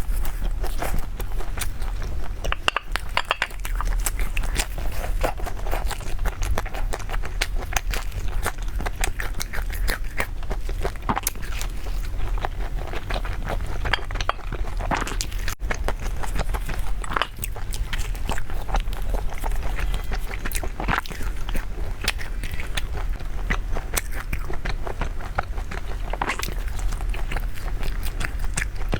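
Close-up chewing and biting of a pan-fried chive pocket, with many small crunching clicks throughout.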